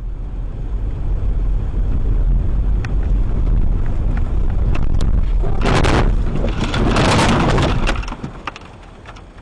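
Car driving, heard from inside with a steady low road and engine rumble, a few sharp clicks, then about five and a half seconds in a loud crash noise that lasts about two seconds before things quieten: a collision.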